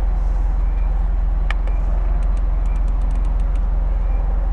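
Mercedes-Benz SLK's engine idling steadily, heard from inside the cabin. A quick run of light clicks comes about two to three and a half seconds in as the radio's volume knob is turned.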